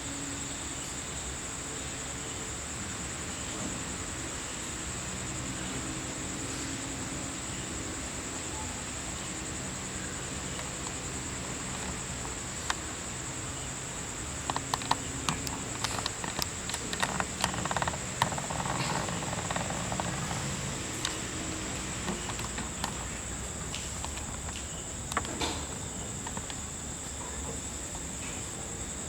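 Crickets trilling steadily in a high, even tone, with faint low voices underneath. A run of scattered sharp clicks and knocks comes through the middle.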